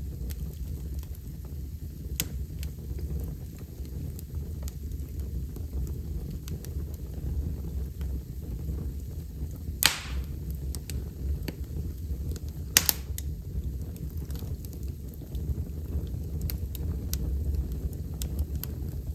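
Wood fire burning in a fireplace: a steady low rumble with scattered small crackles, and two loud pops of burning wood, the second a quick double snap about three seconds after the first.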